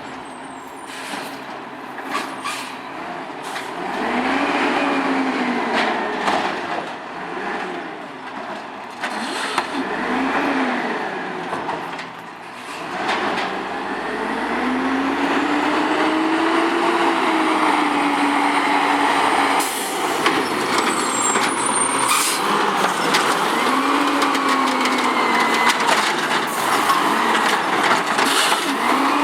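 Garbage truck, an automated side loader, working at the curb: its engine revs up and falls back again and again as the hydraulics run, with air-brake hisses and repeated clanks and knocks.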